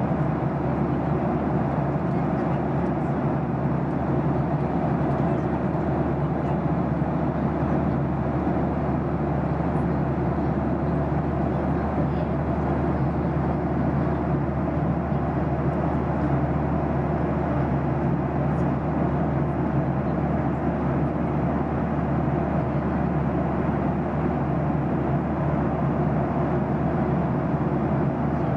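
Steady cabin noise of a jet airliner in cruise, heard from a window seat: an even rush of airflow over a constant low engine hum, unchanging throughout.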